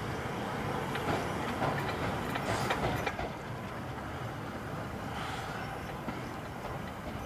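Train moving slowly along the station tracks, a steady rumble with bursts of clicking and clanking from the wheels and running gear about two to three seconds in.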